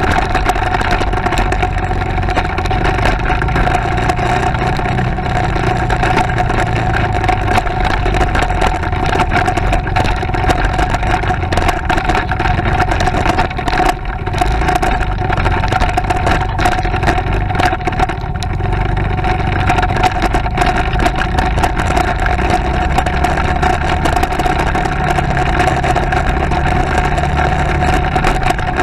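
Motorcycle engine running steadily under way, with a constant drone and a steady tone.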